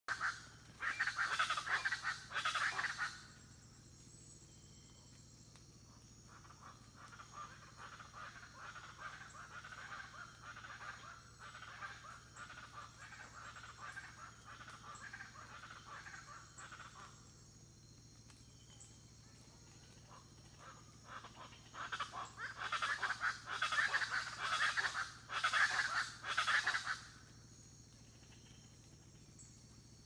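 Loud, harsh bird calls in two bouts, one at the start and another lasting several seconds about three quarters of the way through, with quieter calling in between. This is the strange dawn birdcall that woke the recordist. A steady high insect drone runs underneath.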